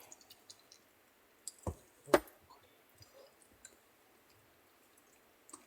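Two sharp clicks about half a second apart, with a few faint small ticks around them: tableware knocking, spoon and bowl at a meal.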